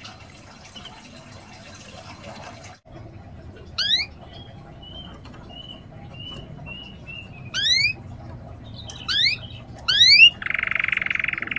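Domestic canary singing in separate phrases: quick upward-sweeping whistles, a run of short even chirps, then a harsh buzzy trill near the end.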